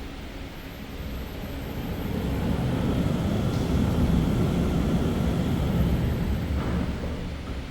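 A low rumbling noise that swells over a couple of seconds, holds in the middle, then fades near the end, like a vehicle or machine passing by.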